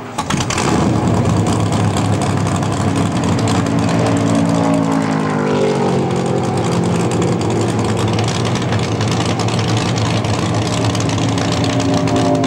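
A stock car's V8 engine comes in suddenly just after the start and keeps running loud and steady, near idle. Its pitch dips and rises slightly around the middle and again near the end.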